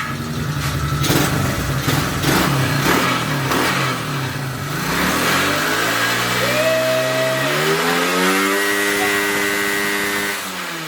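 Dirt bike engine running, revving up in pitch about halfway in, held at high revs for a couple of seconds, then easing off near the end.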